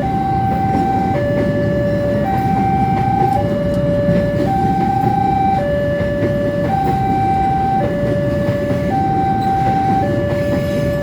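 Railway level-crossing warning alarm sounding a steady two-tone high–low signal, each tone held about a second, over the low rumble of a long train rolling past.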